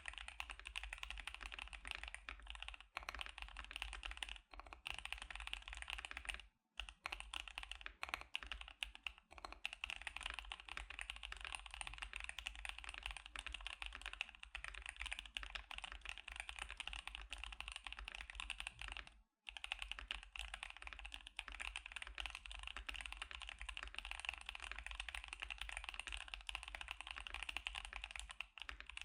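Continuous fast typing on a KBD75 custom mechanical keyboard fitted with Gazzew Boba U4T tactile switches and CannonCaps CXA Sugarplum keycaps. The typing breaks off briefly twice, about six and a half and nineteen seconds in.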